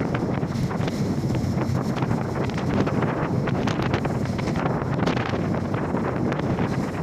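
Strong wind buffeting the microphone on a boat in heavy seas, over a steady low drone, with irregular sharper gusts or splashes breaking through.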